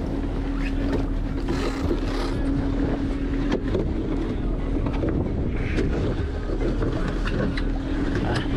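Fishing boat's engine running steadily with a constant hum, under wind buffeting the microphone.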